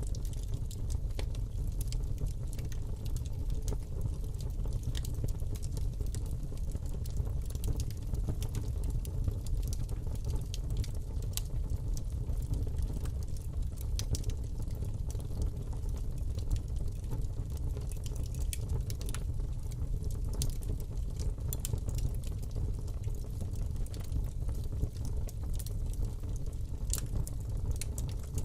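Fire burning in a fireplace: a steady low rumble of flames with frequent, irregular crackles and pops.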